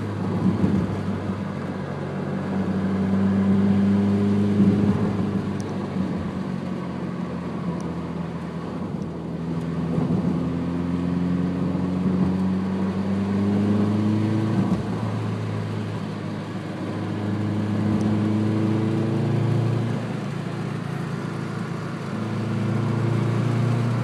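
Subaru Impreza flat-four engine through a TurboXS aftermarket exhaust, accelerating through the gears. The note rises in pitch and drops back at each shift, several times over.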